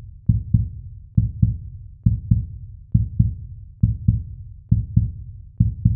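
Low, deep heartbeat-style thumps in pairs (lub-dub), a pair a little under once a second, played as a suspense effect in a cartoon soundtrack.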